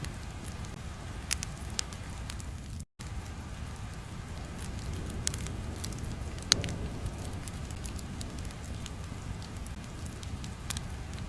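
Steady low rumbling noise with scattered sharp crackles and pops, in the manner of an ambience track. The sound cuts out completely for a split second about three seconds in.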